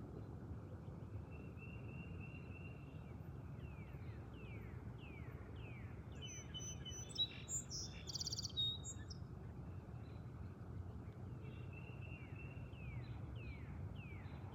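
Birds singing: a run of short, quick downslurred whistles and brief trills repeated over and over, with a louder, more complex call about halfway through. A steady low rumble of background noise lies underneath.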